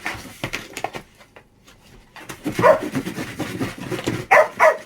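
Two dogs play-fighting, scuffling with short growls and yips. There is a brief lull in the middle, then the calls pick up again and get louder.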